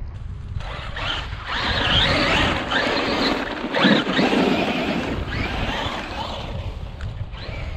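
Traxxas MAXX RC monster truck's brushless electric motor whining up and down in pitch through several bursts of throttle, over the rush of its tyres on dirt and wind on the microphone.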